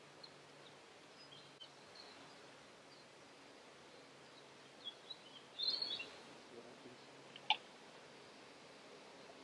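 Quiet spring woodland ambience with scattered small birds chirping, the loudest a short flurry of chirps about six seconds in. A single sharp tick comes about a second and a half later.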